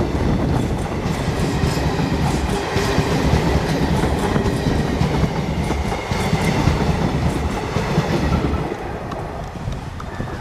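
Passenger train rolling past, its wheels clattering steadily over the rail joints; the sound drops off about eight and a half seconds in.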